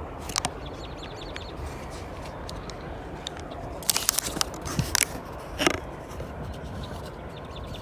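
Handling noise from a camera being adjusted: a short run of small clicks about half a second in, then a cluster of sharper clicks and scrapes from about four to six seconds in, over a steady background rumble.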